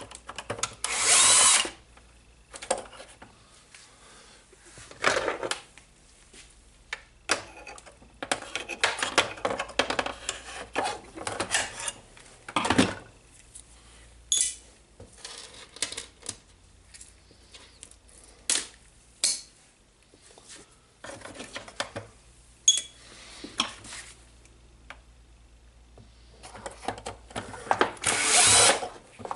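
A power drill-driver runs in short bursts, about a second each near the start and again near the end, backing screws out of the radio's plastic casing. Between the bursts come scattered clicks and knocks of plastic parts being handled.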